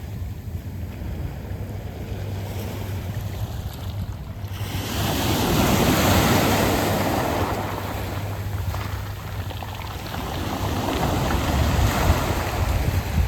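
Sea waves washing in over a beach of smooth round pebbles. A wave surges in about a third of the way through and fades, and another builds toward the end.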